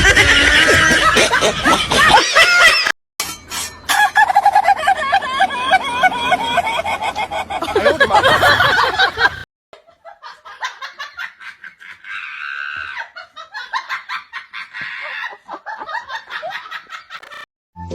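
Several short clips cut together: loud, repeated, wavering animal calls of the clucking kind mixed with laughter, then after a cut about halfway through, a quieter stretch with scattered clicks.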